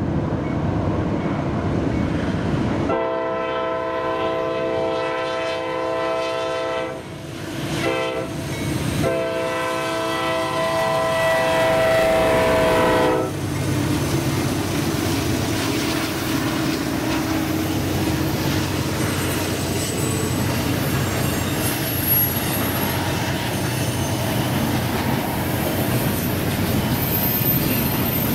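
Norfolk Southern freight locomotive's horn blowing for a road grade crossing: long blasts with short breaks, the last held until about 13 seconds in as the locomotives reach the crossing. Then the diesel locomotives rumble by, followed by the steady clatter of double-stack intermodal container cars rolling past, with a faint high wheel squeal near the end.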